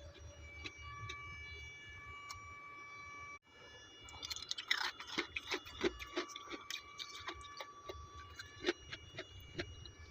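Freezer frost chunks crunching in the mouth, many short irregular crackles, starting after a sudden break about three and a half seconds in. A faint steady whine runs underneath.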